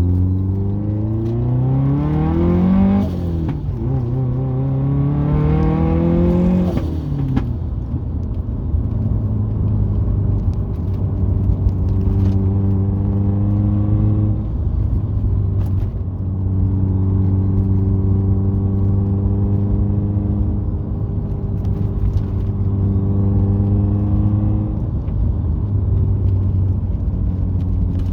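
Turbocharged Subaru flat-four with an aftermarket turbo and Invidia cat-back exhaust, heard from inside the cabin, accelerating hard twice with rising revs. Each run ends in a sudden drop in revs and a sharp burst of turbo flutter on lift-off, followed by the engine's steady drone at cruise.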